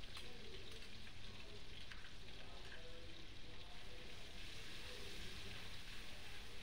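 Ginger-garlic paste sizzling steadily in hot oil in a brass kadhai as a spoon stirs it, a soft even hiss with a few faint ticks.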